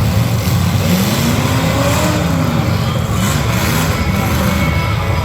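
Demolition derby car engines running loudly and revving, the pitch rising and falling about a second in.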